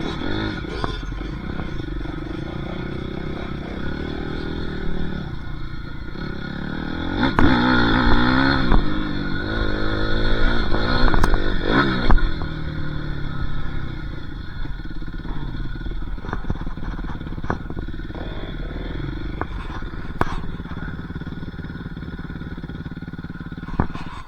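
Dirt bike engine running and revving up and down, loudest and wildest in pitch about 7 to 12 seconds in, with a few sharp clacks along the way.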